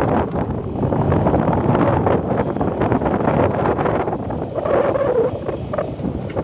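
Wind buffeting the microphone on a moving motorcycle, a loud steady rush with the motorcycle's engine running beneath it.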